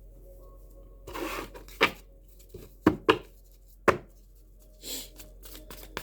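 Tarot cards being handled on a table: a brief rustle, then several sharp taps or slaps of cards set down, and another rustle near the end.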